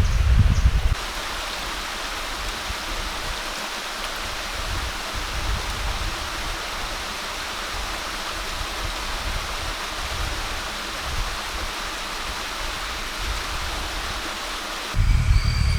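Steady rushing water, an even hiss with no rhythm. It starts abruptly about a second in, replacing a deep rumble, and cuts off near the end, where a low rumble and thin high tones take over.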